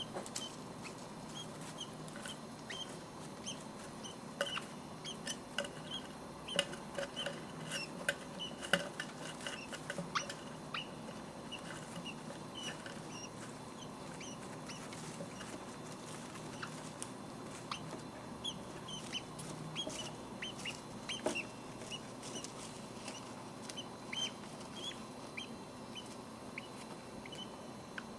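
Budgerigar chicks cheeping: short high peeps repeated over and over, with scattered small clicks and scratches.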